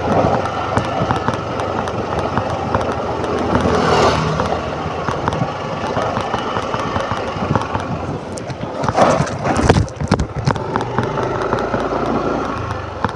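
Motor scooter engine running steadily while being ridden uphill, with wind rushing and buffeting over the microphone; a few loud buffets about nine to ten seconds in.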